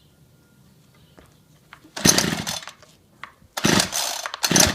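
Ryobi CS26 26cc two-stroke string trimmer being pull-started cold on full choke: three short rasps of the recoil starter cord turning the engine over, one about two seconds in and two close together near the end, without the engine running on.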